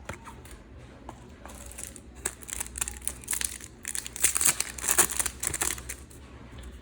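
Foil trading-card packet wrapper crinkling as it is torn open, with dense crackling that grows loudest a little past the middle.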